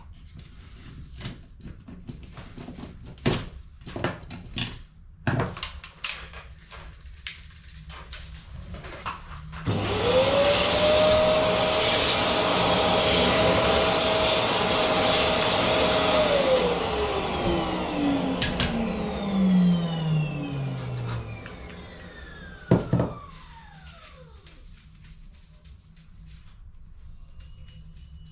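Small clicks and knocks of cartridge parts being handled, then a vacuum cleaner switched on for about six seconds, a steady hiss with a steady whine. It is switched off and the motor winds down over several seconds with a falling whine, followed by a single sharp knock.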